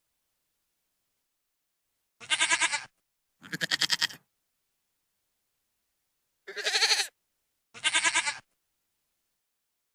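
Goat screaming: four short, quavering bleats, in two pairs, with silence between them.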